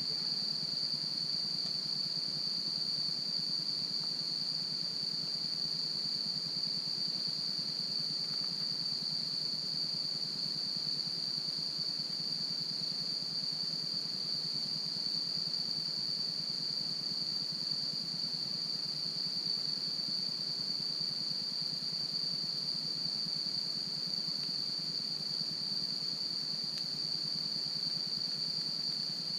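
Autumn insects trilling in one unbroken high-pitched drone, over the low hiss of a campfire with a faint crackle now and then.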